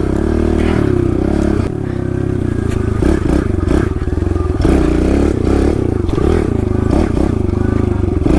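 Kawasaki KLX110L pit bike's small single-cylinder four-stroke engine, revving up and down as it is ridden along a rough woods trail, with a few short knocks over bumps.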